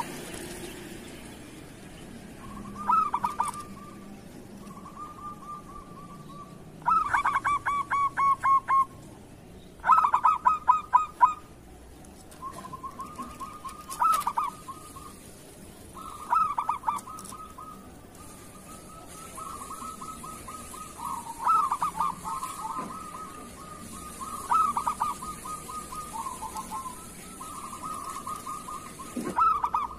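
Zebra dove (perkutut) cooing: repeated soft, rolling coos, with two loud runs of quick staccato notes in the first half.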